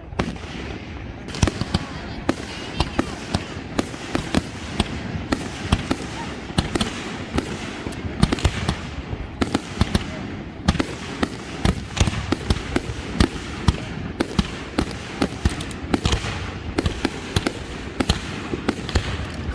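Aerial fireworks bursting in a rapid, irregular barrage of bangs and crackles, several a second.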